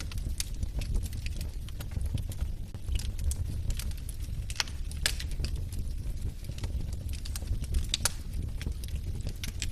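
Wood fire crackling: irregular sharp pops and snaps from burning logs over a steady low rumble.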